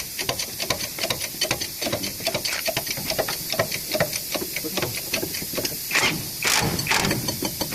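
Rapid clicking, several clicks a second, from tool work on a truck's suspension, with a few short hisses near the end.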